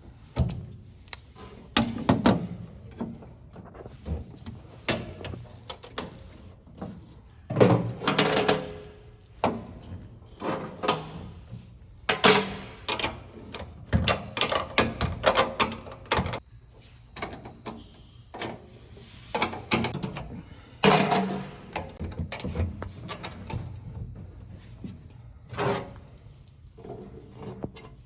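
Irregular metallic clanks, knocks and rattles of tools and latch parts as a cargo-bed tailgate latch is loosened, moved and tied in place.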